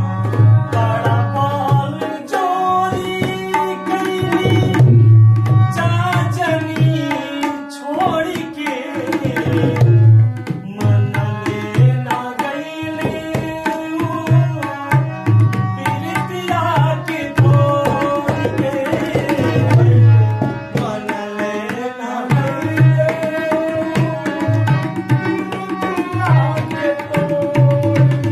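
Instrumental interlude of a Bhojpuri folk song: a hand drum plays a steady rhythm with deep bass strokes under a held, winding melody.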